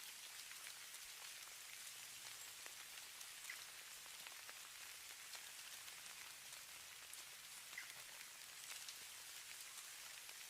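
Falling snow: a faint, steady hiss with many small irregular ticks of flakes and ice grains landing, and a couple of slightly sharper ticks.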